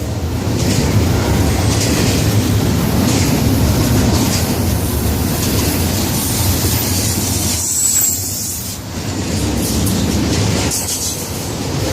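Florida East Coast Railway freight train rolling past close by: a steady rumble and clatter of wheels on the rails, with a brief high wheel squeal about eight seconds in.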